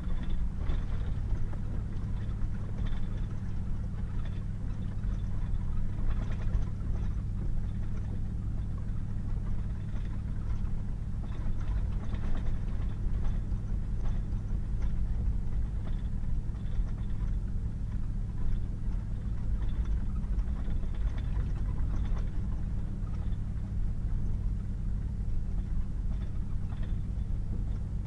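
Pickup truck driving steadily on a wet gravel road: an even low engine drone with tyre and road noise, and scattered faint ticks and knocks.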